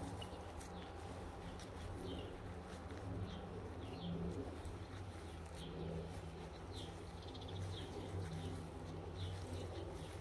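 Small birds chirping: short, high, falling chirps repeated irregularly every second or so, over a low steady outdoor rumble.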